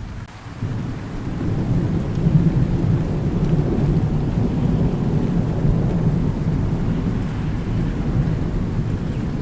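Thunder rumbling over steady rain. A deep roll of thunder swells about a second or two in and keeps rolling through.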